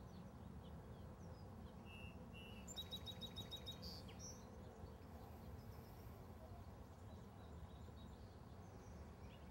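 Near silence with a faint, steady low rumble. About three seconds in, a bird gives a quick trill of rapidly repeated high chirps, with a few scattered faint chirps around it.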